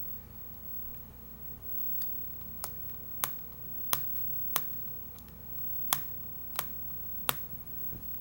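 Nexus 7 tablet's screen clicking against its frame, a string of sharp single pops about two-thirds of a second apart with a short break in the middle. The screen has separated from the left side of the frame, a common build fault in this tablet.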